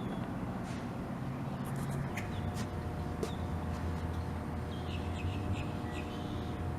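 Birds giving short scattered chirps and calls over a steady low rumble.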